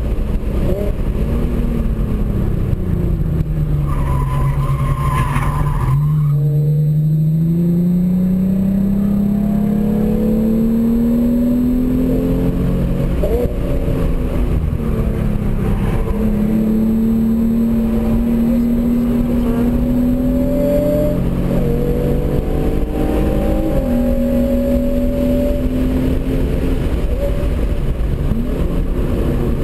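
Genesis Coupe's 3.8-litre V6 working hard on track, heard from inside the cabin. The engine pitch climbs in long pulls and drops sharply between them, and there is a brief high squeal about four seconds in.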